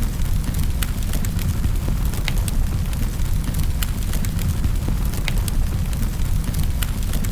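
Wood fire crackling in a fireplace: a steady low rumble of burning, with scattered sharp pops and snaps about two a second.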